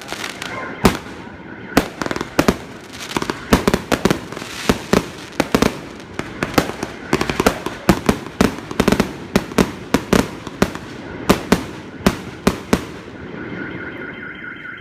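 Fireworks going off: many sharp bangs at irregular intervals, some in quick clusters, thinning out near the end. A steady high tone comes in as the bangs stop.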